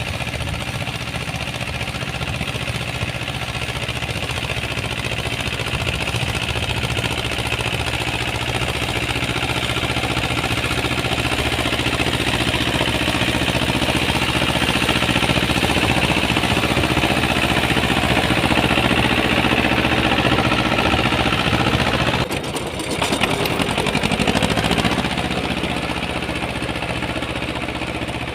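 Uralets walk-behind tractor running steadily under load while its rotary tiller churns through garden soil, with a brief drop in the sound about three-quarters of the way through.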